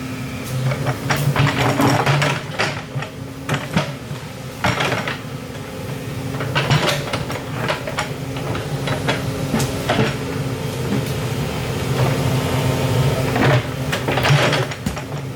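An excavator's diesel engine running steadily, with irregular metallic clanks and scrapes as it digs.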